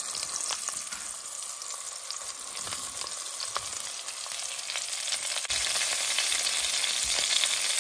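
Smoked Polish sausage slices sizzling in bacon grease in an enameled cast-iron pot as sliced onions are dropped in by hand. The sizzle is a steady hiss with light crackles, and it turns abruptly louder about five and a half seconds in.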